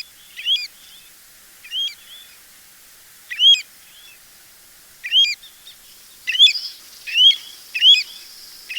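Pacific golden plover calling: short, clear whistled notes that slur sharply upward and then drop, repeated about ten times at irregular intervals.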